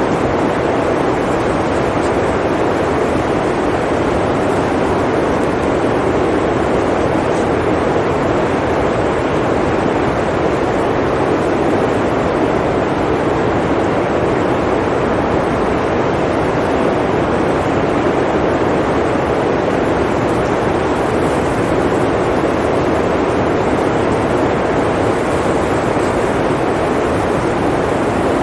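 Blizzard wind blowing: a steady, even rushing noise with no distinct gusts.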